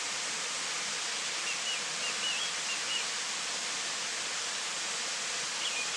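Steady outdoor natural ambience, an even hiss, with a few faint short bird chirps about one and a half to three seconds in and again near the end.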